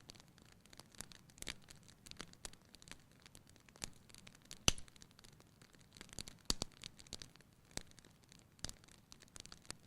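Wood fire burning in a fireplace, crackling with irregular small pops and one louder snap a little under halfway through, over a faint low rush.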